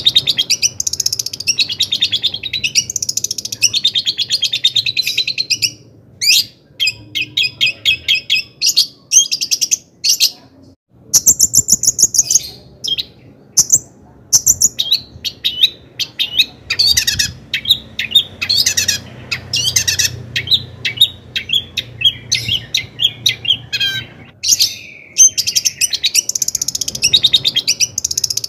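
Long-tailed shrike (cendet) singing a fast, varied, chattering song of rapid high notes and trills, with a brief pause about eleven seconds in.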